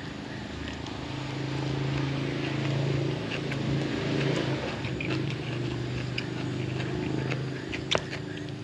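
A person chewing crunchy raw vegetables and salad, with small clicks and crunches, over a low steady drone that swells for a few seconds and then eases off. A single sharp click comes near the end.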